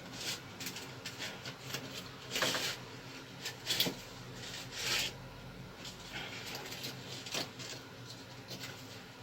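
Irregular scrapes, rubs and light clicks of hand work, with a few short, louder rasping strokes about two and a half, four and five seconds in.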